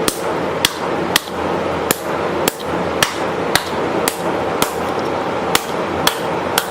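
Wooden hammer handle whacking the dented sheet-metal back plate of an antique electric fan in a steady rhythm of about two sharp strikes a second, knocking the dent out.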